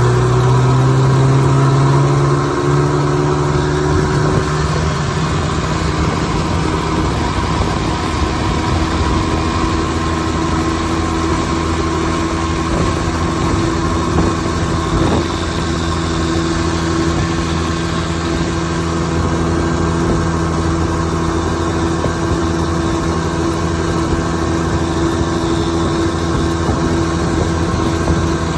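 Goodyear Sea-Bee 12 hp two-stroke outboard motor running under way. It comes up to speed in the first couple of seconds, then holds a steady pitch.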